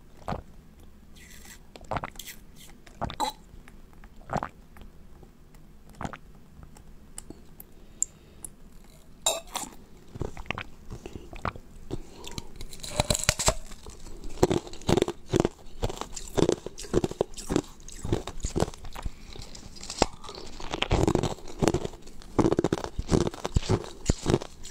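Close-up crunching and chewing as a clear, cup-shaped edible is bitten into and eaten: scattered crisp crunches at first, coming thick and fast from about halfway.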